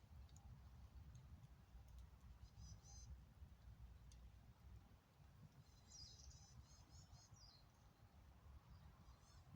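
Faint calls of a small songbird: a short run of high chirps about two and a half seconds in, then a longer run of quick repeated chirps from about six to seven and a half seconds, over a low steady background rumble.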